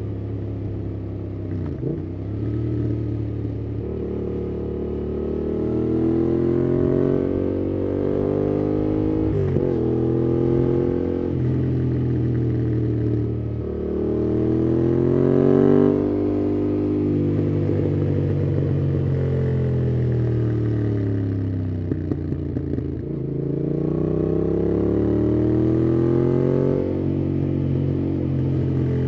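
2018 Yamaha MT-07's parallel-twin engine through a MIIV aftermarket exhaust with dB killer, ridden through the gears. The pitch climbs under acceleration and drops at each shift or roll-off, several times over.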